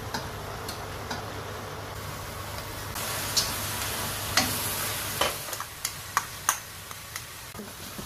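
Grated gourd halwa sizzling in butter in a wok while a spatula stirs it. The frying gets louder about three seconds in, and from then on the spatula scrapes and knocks sharply against the pan at irregular moments.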